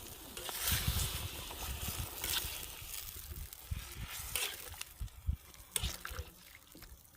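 Water splashing and trickling in several short bursts, with low knocks in between.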